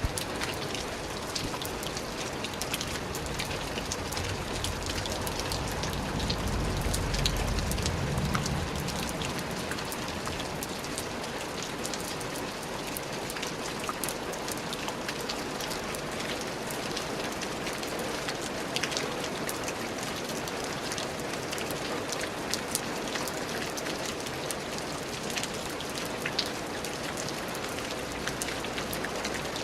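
Steady rain falling on a surface, with many separate drops ticking through the hiss. A low rumble swells and fades between about five and nine seconds in.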